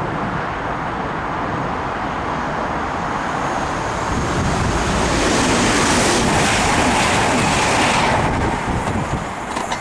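Class 180 diesel multiple unit passing: a steady rush of wheel and air noise that swells to its loudest from about five to eight seconds in, then drops away quickly.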